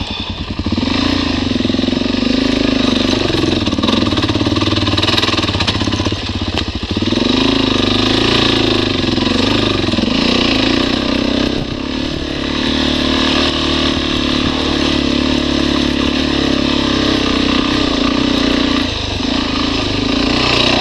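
Dirt motorcycle engine running while riding, its pitch shifting up and down several times as the rider works the throttle over rough ground, over steady wind and road noise.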